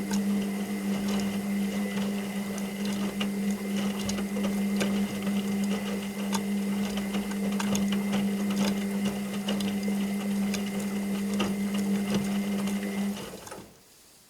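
Washing machine's motor turning the drum: a steady hum with a thin whine and scattered light clicks, which stops about thirteen seconds in as the drum pauses.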